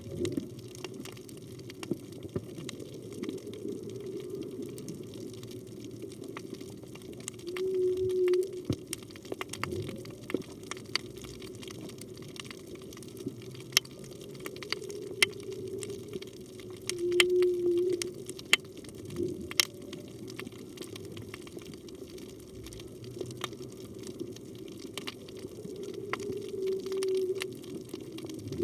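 Underwater ambience with scattered sharp clicks, over which a humpback whale sings three short, steady low notes, about nine seconds apart.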